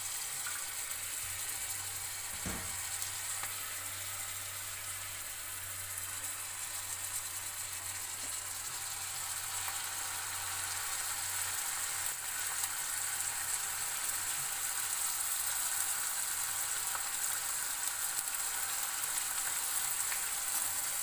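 Fenugreek leaves and an onion–green-chilli mixture sizzling steadily in a kadai on a gas stove, with a single knock, likely the spatula against the pan, about two and a half seconds in.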